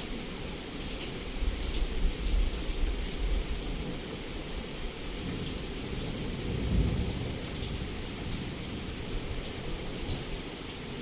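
Heavy rain pouring steadily against a window, with scattered sharp drip ticks. Low rolling thunder rumbles under it and swells to its loudest a little past the middle.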